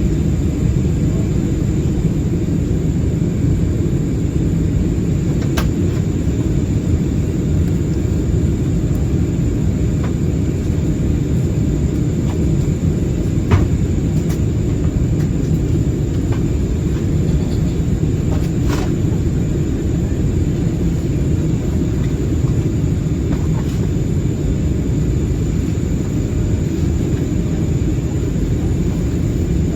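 Steady cabin noise inside an Airbus A320-216 in flight: a low rumble of airflow and engines with a thin high whine held throughout. A few faint clicks come through, around five, thirteen and nineteen seconds in.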